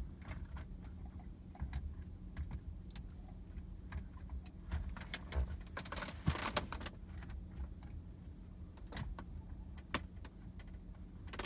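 Scattered light clicks and knocks of hands handling parts and connectors, a busier run of clicks a little past the middle, over a low steady hum.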